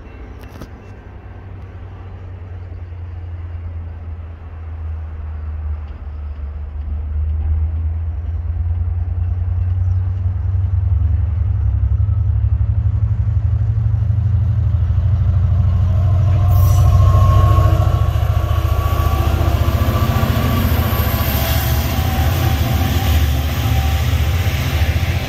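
Israel Railways train approaching and passing close by. A deep rumble grows louder over about ten seconds and then holds steady, with a high thin whine joining in from about seventeen seconds.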